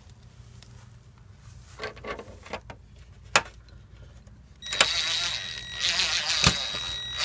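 A few light handling clicks, then about two-thirds of the way in a Ridgid cordless impact driver starts up with a steady whine and fast hammering rattle, driving a screw through the dryer vent cap into an anchor in the brick wall.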